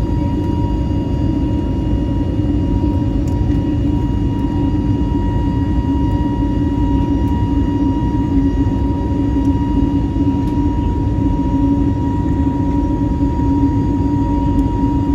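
Steady cabin noise of an Airbus A320neo with CFM LEAP-1A engines: an even, loud rumble of engines and airflow with a steady hum and a thin constant whine over it.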